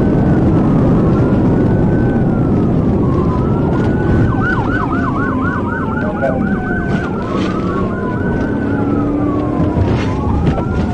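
Police patrol car siren sounding during a pursuit: a slow rising and falling wail that switches to a fast yelp of about four sweeps a second for a few seconds mid-way, then goes back to the wail. Under it runs the patrol car's own loud engine and road noise at speed.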